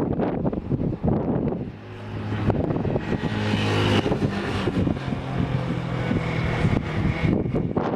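Wind gusting on the microphone, with a vehicle's engine humming steadily from about two seconds in until shortly before the end.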